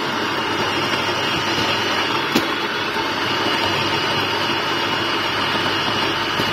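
Built-in burr grinder of a Breville Barista Max espresso machine running steadily as it grinds coffee beans, with a faint high whine over the grinding and a single click about two and a half seconds in.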